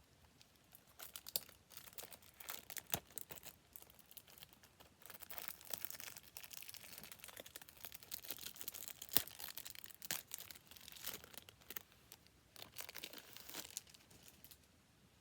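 Plastic wrapping being torn and crinkled off a new DVD case: faint irregular crackling with scattered sharp clicks, the sharpest about nine seconds in.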